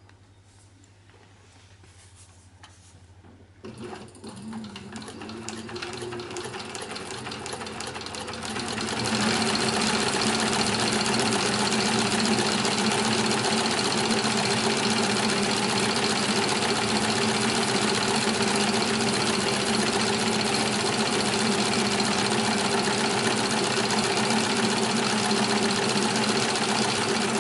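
Cowboy CB 6900 heavy-duty sewing machine stitching a 6 mm thick strap. After a faint motor hum and a few light clicks, the needle starts about four seconds in, running slowly at first and picking up to a steady fast stitching run from about nine seconds on.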